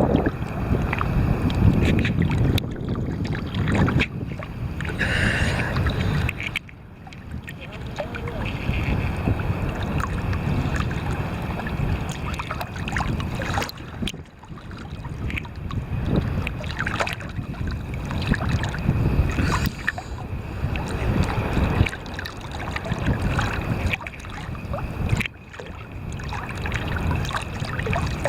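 Choppy seawater sloshing and splashing around a swimmer's camera, with wind buffeting the microphone. The noise surges unevenly and drops away sharply for a moment a few times.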